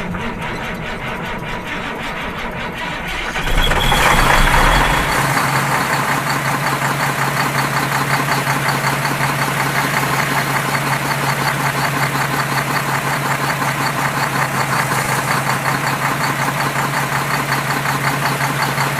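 A small motor running steadily. About three and a half seconds in it gets louder and settles into an even hum until it cuts off.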